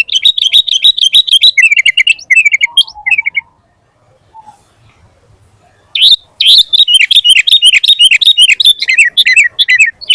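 Sooty-headed bulbul singing in fast runs of short, high notes. There are two bouts: one at the start, then a pause, and a second bout starting about six seconds in.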